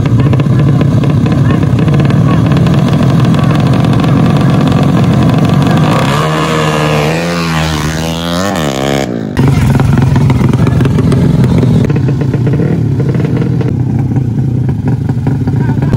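Drag-race motorcycle engines running loud, with revving that rises and falls in pitch around the middle. The sound breaks off abruptly about nine seconds in, then steady engine running resumes.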